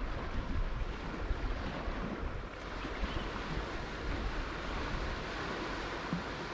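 Ocean waves washing steadily on the shore, with wind buffeting the microphone in low rumbles.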